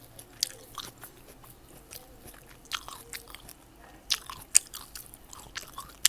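Close-miked eating of fresh fruit: bites and chewing heard as irregular sharp, crisp clicks, several a second, with one louder bite about four and a half seconds in.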